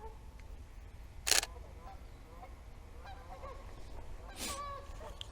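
Geese honking, with several faint calls scattered through and one louder, harsh honk about four and a half seconds in. A short, sharp noise comes about a second in.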